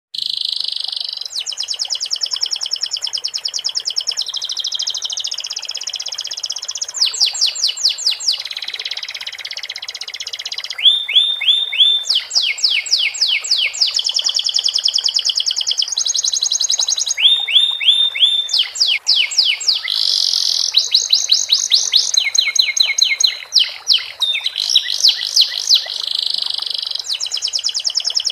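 Domestic canary singing a long, unbroken song of fast trills and rolling phrases that change every second or two, among them a run of quick falling whistled notes. It is a canary tutored with sikatan londo (flycatcher) phrases.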